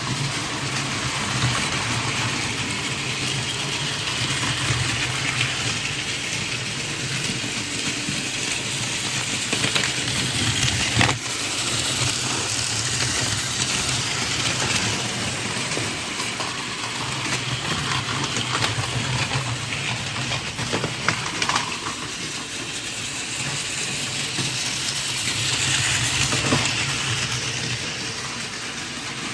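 Battery-powered Plarail toy Shinkansen running on plastic track: a steady whir of its small motor and gears, with a few sharp clicks.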